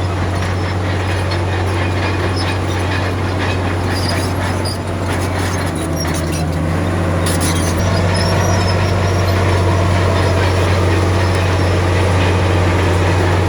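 Diesel engine of a Komatsu D53P crawler bulldozer running steadily under load, with scattered metallic squeaks and clanks from its tracks. It grows slightly louder past the middle.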